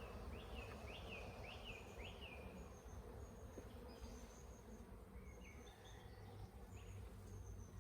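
Honeybees humming steadily around an open hive, faint. A bird sings a run of four or five chirps in the first two seconds, with short high whistles through the rest.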